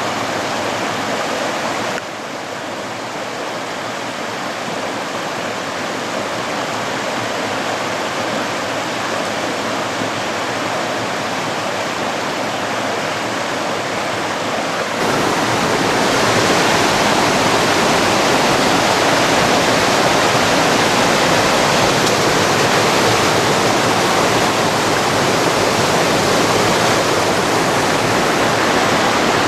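Steady rush of flowing river water. The sound changes abruptly about two seconds in and again about halfway through, where it becomes louder.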